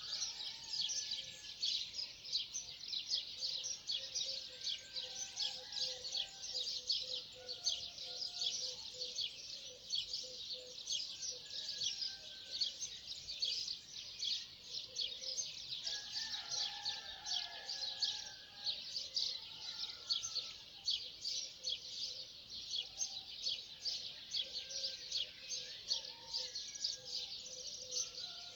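Birds chirping at dawn: a dense, unbroken run of rapid high chirps, with softer, lower calls coming and going over it.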